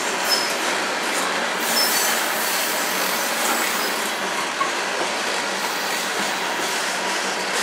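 Coal hopper cars of a Union Pacific coal train rolling past, a steady rolling noise of steel wheels on the rails, with two brief faint high wheel squeals in the first two seconds.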